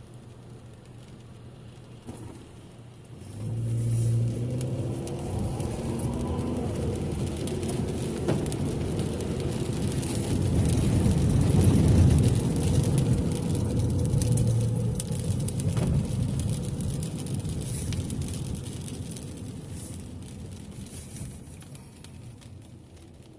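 Car engine and road noise heard from inside the car's cabin. A low rumble comes in suddenly about three seconds in, swells to its loudest around the middle, then slowly fades away.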